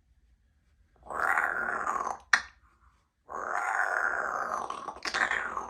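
Congo African grey parrot growling: two long raspy growls, the second longer, with a sharp click between them.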